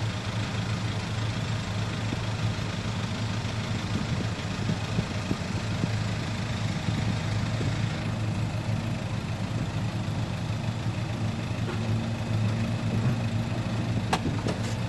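Diesel dump-truck engine idling steadily, a low even hum.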